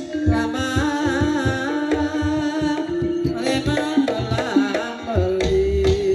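Banyumasan ebeg accompaniment music: hand drums (kendang) playing a busy rhythm under pitched melodic instruments, with a wavering melody line on top.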